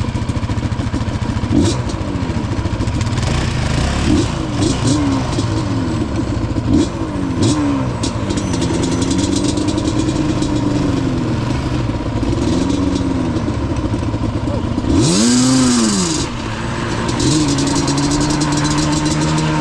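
Yamaha Banshee's two-stroke parallel-twin engine being ridden, its pitch rising and falling again and again with the throttle. About fifteen seconds in it revs sharply up and back down, with a brief rushing hiss.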